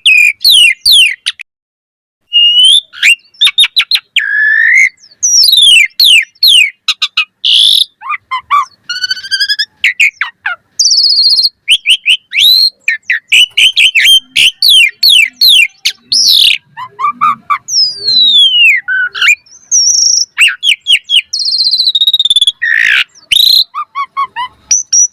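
Asian pied starling (jalak suren) in full varied song: a rapid run of whistles, rising and falling slurred notes, and fast clicking rattles. There is a short pause about two seconds in.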